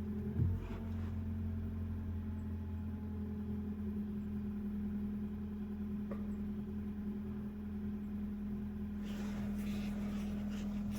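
2025 Mazda CX-5's 2.5-litre four-cylinder engine idling steadily shortly after a cold start in snow, heard from inside the cabin. There is a brief knock about half a second in.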